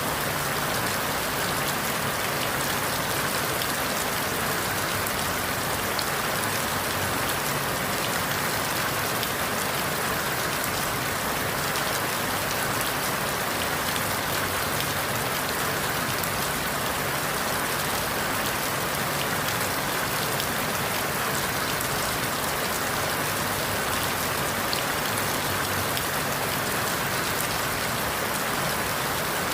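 Steady rain falling through forest leaves, an even hiss with scattered faint drop ticks.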